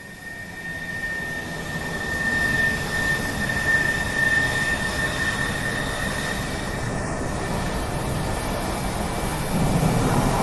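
Steady engine roar with a high whine, fading in over the first couple of seconds and then holding.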